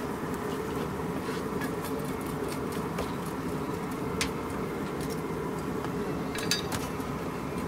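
Passenger train in motion: a steady running rumble and hum of wheels on rails, with scattered sharp clicks and rattles, a cluster of them about six and a half seconds in.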